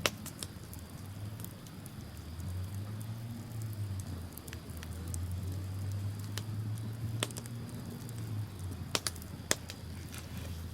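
Wood bonfire crackling with scattered sharp pops, a few louder snaps near the end, over a steady low rumble.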